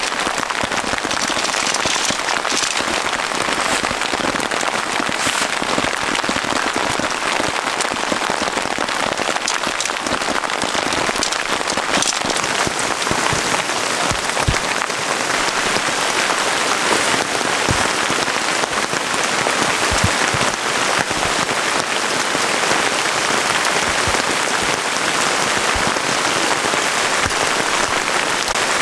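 Heavy rain falling steadily, a dense hiss of many drops striking a surface.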